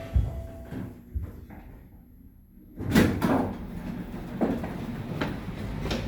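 1986 Dover elevator's doors operating: a couple of thuds, a short quiet pause, then a sudden louder rush of noise about three seconds in, followed by a steady rumble with several separate clunks.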